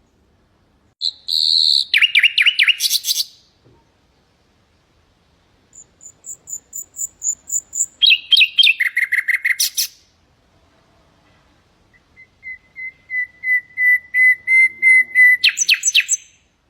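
Common nightingale singing three phrases of rapidly repeated notes. The last phrase is a long run of clear notes on one pitch that swells in loudness and ends in a quick, harsh burst.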